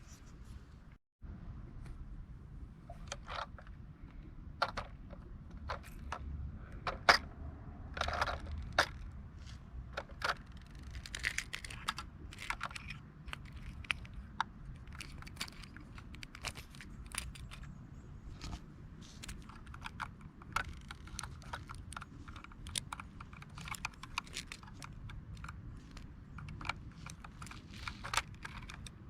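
Irregular small clicks and taps of hard plastic and metal parts being handled, over a low steady hum; the sound drops out briefly about a second in.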